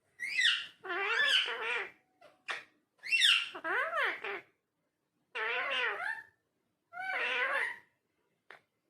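Indian ringneck parakeet vocalizing in a run of five or six short pitched phrases with brief pauses between them, each rising and falling in pitch.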